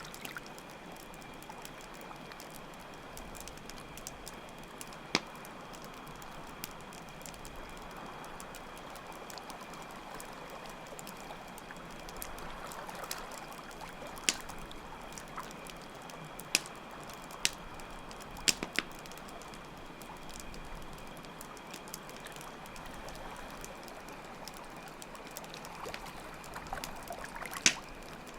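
Night ambience of steadily running water with crickets chirping in a steady high trill, and the sharp pops of a crackling campfire every few seconds, the loudest pop near the end.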